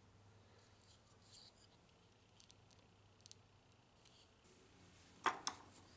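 Faint clicks and light taps of small parts being handled, with one sharper clack a little over five seconds in.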